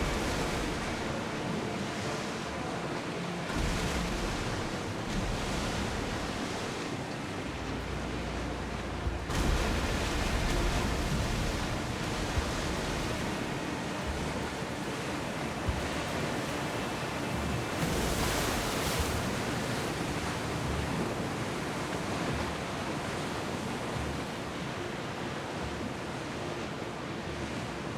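Sea water washing and rushing past a ship under way, a steady wash mixed with wind. It swells loudest about nine seconds in and again around eighteen seconds.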